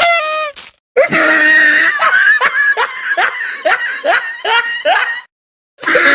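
A laughing sound effect: a run of loud falling laughs, about two a second, that cuts off abruptly about five seconds in and starts again near the end.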